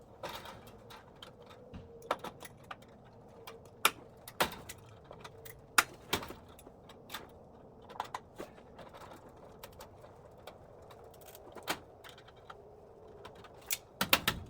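Irregular sharp clicks and knocks of metal hinges and hardware being handled and worked, about a dozen scattered hits with no steady rhythm.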